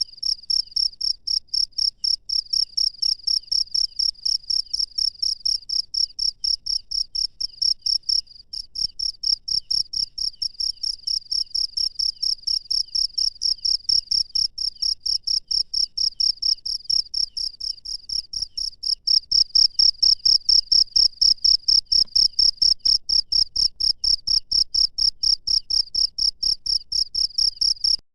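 A single cricket chirping close by: a fast, even train of short, high chirps, several a second, with a brief pause about eight seconds in.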